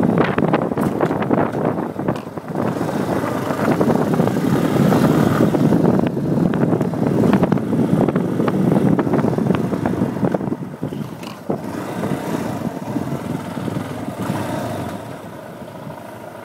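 Motorcycle engine running loud with a dense clicking rattle through it, the strange noise the owner is asking about. It eases off about two-thirds of the way in and drops lower near the end, toward idle.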